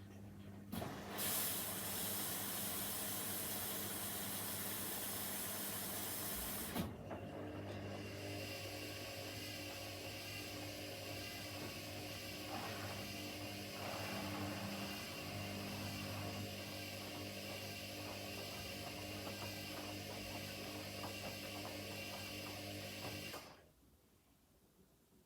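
Washing machine filling: water hissing in through the solenoid inlet valve, with a low electrical hum from the valve. The flow changes with a click about seven seconds in, and it shuts off sharply near the end.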